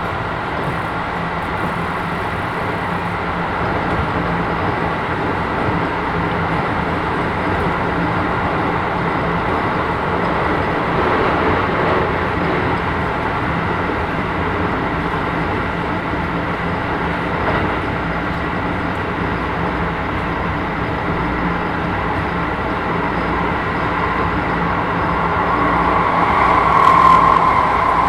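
Interior running sound of a Keisei 3000-series electric train with Toyo IGBT-VVVF traction equipment: a steady rumble of wheels on rail under the car floor, with a tone swelling louder near the end.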